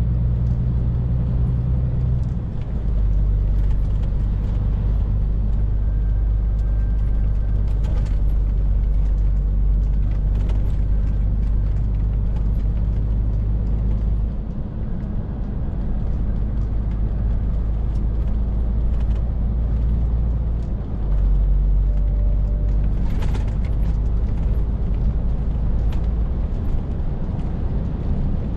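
Scania R450 lorry's 13-litre six-cylinder diesel engine running steadily under way, its low drone stepping to a new pitch a few times as engine speed changes.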